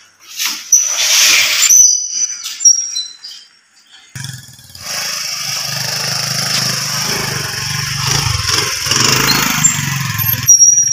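Small Honda motorcycle's single-cylinder engine running steadily from about four seconds in. Before it, a few knocks and short high chirps.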